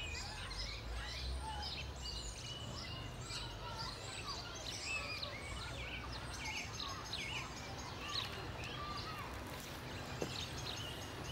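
Songbirds chirping and singing throughout, many short rising and falling calls, over a steady low background rumble.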